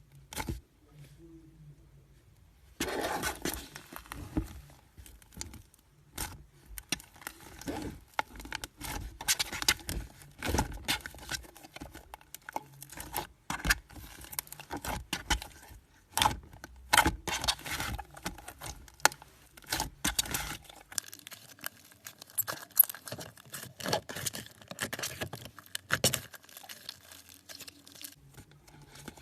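Slime being squeezed and poked by hand, giving irregular sticky clicks, pops and crackles that begin about three seconds in and keep going.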